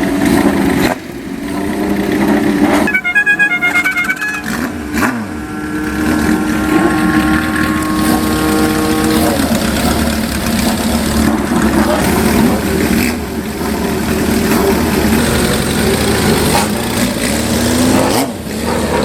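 Old motorcycles and cars revving and pulling away one after another, their engines rising and falling in pitch.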